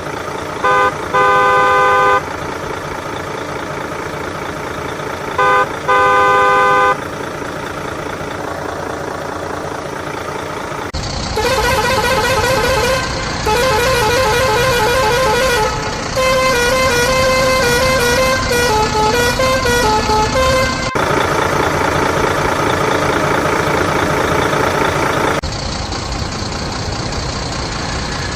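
Vehicle engine running steadily with horn honks: two short double blasts in the first seven seconds, then a louder stretch of about ten seconds with a wavering, tune-like horn.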